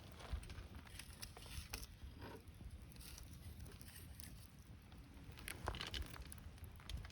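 Wood campfire crackling, with faint irregular snaps and pops.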